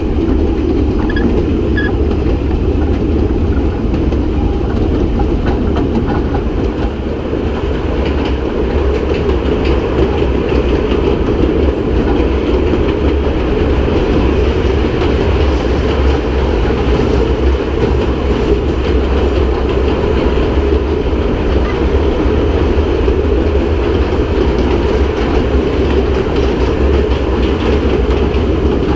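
Kurobe Gorge Railway narrow-gauge train running, heard from an open-sided passenger car: the steady noise of the carriage and its wheels on the rails, partly inside a tunnel.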